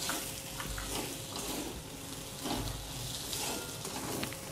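Onion, coconut, spice and garlic masala sautéing in oil in a kadhai: a steady sizzle, stirred with a steel spatula that scrapes the pan now and then.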